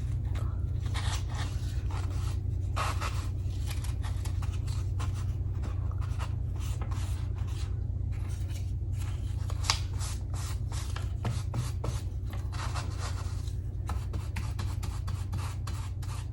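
Paper being rubbed and brushed as torn gel-print pieces are glued down and smoothed onto canvas. It is an irregular run of scratchy strokes and rustles over a steady low hum.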